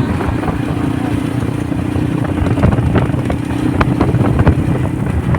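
Motorcycle engine running at a steady pitch while riding, with road and wind noise.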